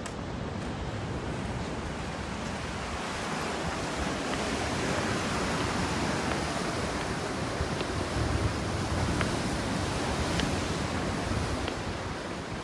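Sea waves washing ashore: a steady rushing noise that swells in the middle and eases near the end, with wind buffeting the microphone.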